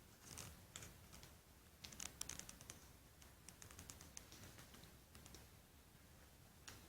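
Faint, irregular small clicks and taps, several a second, with no steady rhythm.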